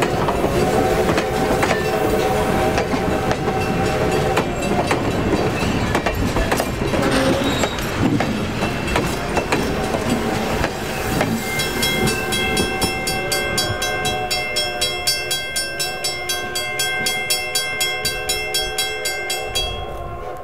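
A steam excursion train's passenger cars roll close past, their wheels clicking rhythmically over the rail joints at about two beats a second. A steam locomotive whistle sounds two long chorded blasts, one at the start and another from about ten seconds in. The sound falls away near the end as the last car clears.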